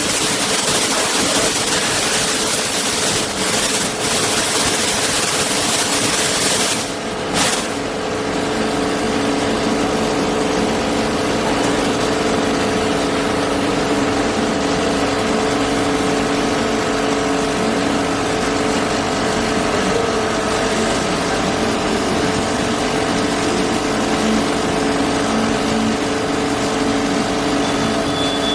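A motor-driven machine running steadily with a constant hum and a strong hiss. About seven seconds in, the sound dips briefly, and the hiss stays lower after that.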